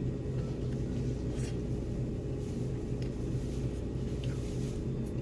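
Steady low mechanical hum from running machinery, with a few faint light clicks.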